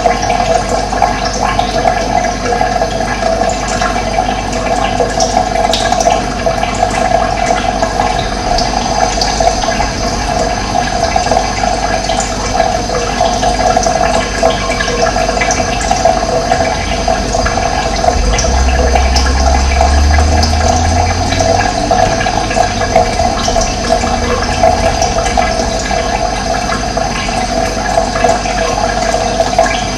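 Running water flowing steadily with a constant gurgling rush. A low rumble swells briefly about two-thirds of the way through.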